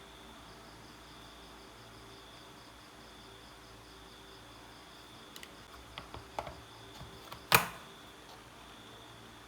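A few light clicks and taps, then one sharp knock about seven and a half seconds in, over a faint, steady, high-pitched chirring like crickets.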